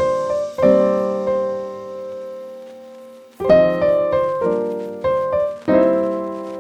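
Background piano music: slow chords struck a few times and left to ring and fade.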